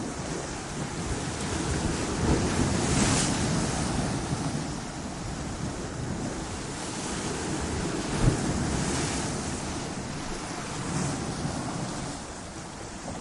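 Ocean surf breaking against rocks, the wash swelling and easing in surges a few seconds apart. A short sharp crack of a wave striking rock about two thirds of the way through is the loudest moment.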